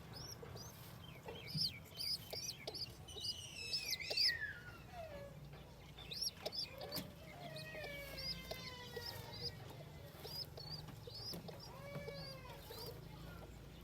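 Baby chicks peeping: many short, high cheeps, with several longer calls that fall in pitch and a few lower, arching calls mixed in.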